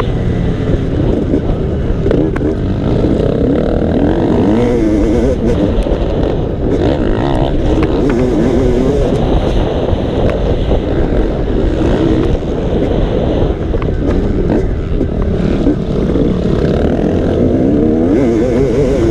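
Motocross dirt bike engine revving as it is ridden, its pitch rising and falling over and over with throttle changes.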